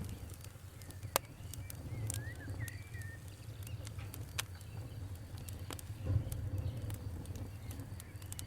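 Campfire crackling with scattered sharp pops over a steady low rumble, one pop louder than the rest about a second in. A bird chirps a few quick notes about two to three seconds in.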